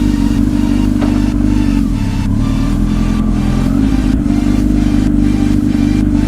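Sport-bike engine running steadily at an even pitch, with a slight dip about two seconds in. The bike is a 2007 Kawasaki ZX-10R inline-four with a full Two Brothers aftermarket exhaust.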